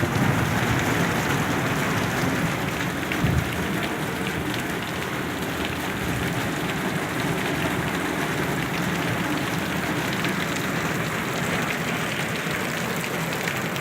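Heavy rain mixed with hail pelting down: a steady hiss of rain with many small sharp ticks from hailstones striking surfaces. There is one brief louder thud about three seconds in.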